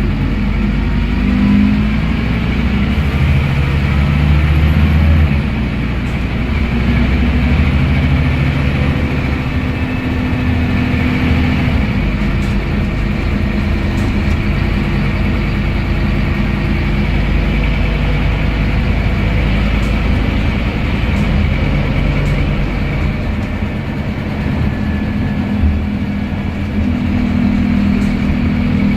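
Scania N230UD double-decker bus running, its engine note shifting in pitch a few times, with a faint high whine from its ZF Ecomat automatic gearbox.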